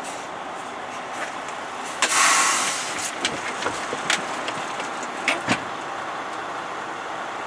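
Semi tractor's diesel engine idling. About two seconds in, a short loud hiss of air from the air brakes, followed by several sharp clicks.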